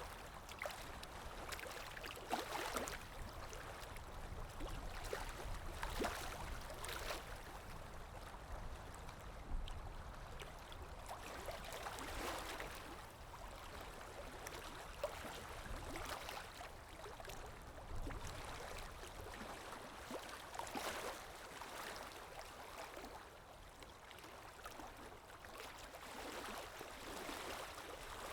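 Small, calm waves washing in, the water noise swelling softly every three to four seconds with light splashes and gurgles.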